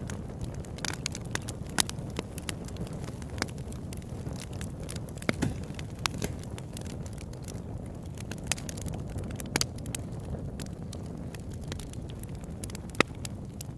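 Wood campfire crackling: irregular sharp pops and snaps, a few louder than the rest, over a steady low rumble.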